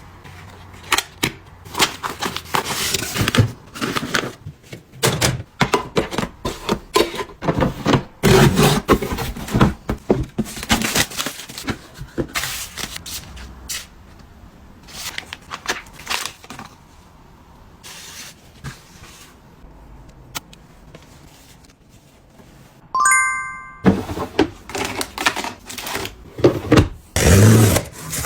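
Packaging being handled during an unboxing: irregular rustling, crinkling, taps and clicks. Near the end there is one short ringing tone.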